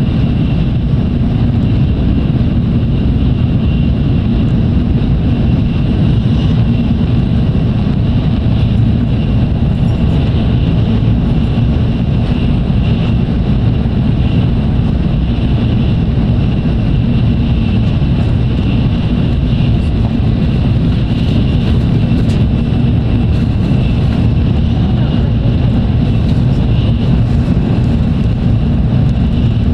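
Tokaido Shinkansen train running at speed, heard inside the passenger car: a loud, steady rumble with a faint high whine above it.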